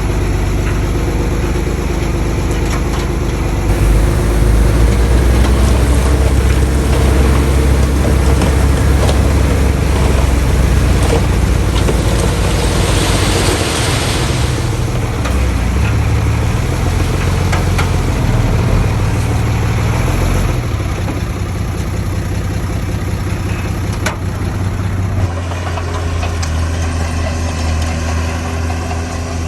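A bulldozer's diesel engine runs steadily, its note growing heavier under load about four seconds in and easing back near the end. A rushing noise is heard for a couple of seconds midway.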